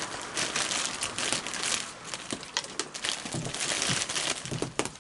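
A plastic marshmallow bag being handled, crinkling and rustling in quick, irregular crackles.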